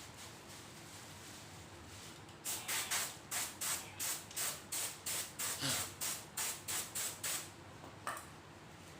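Aerosol spray-paint can sprayed in a rapid series of short hisses, about three a second for some five seconds, then one more short spray near the end.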